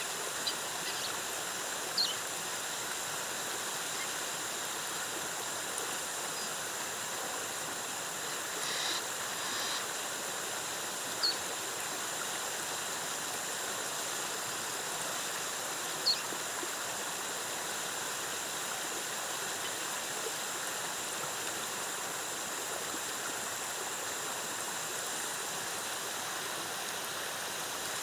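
Waterfall's cascading water rushing in a steady, even wash, with a few brief, faint high chirps over it.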